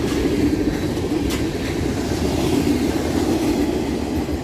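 Freight train cars rolling past close by on the adjacent track: a steady rumble of steel wheels on rail, with a couple of sharp clicks in the first second and a half, easing slightly near the end.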